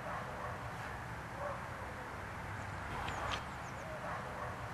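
Outdoor ambience: birds calling, with short high chirps and lower repeated calls, over a steady low rumble.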